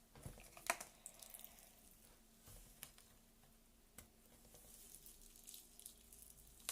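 Faint squishing and crackling of homemade PVA-glue slime being handled, with a few light clicks, the sharpest about a second in.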